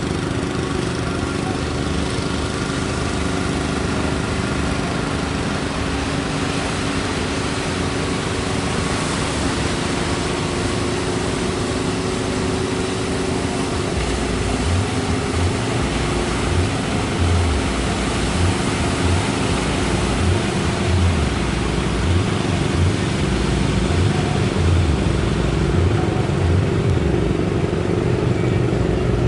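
A motor engine running steadily, with a constant hum under an even rushing noise of surf and wind; uneven low rumbles join in from about halfway.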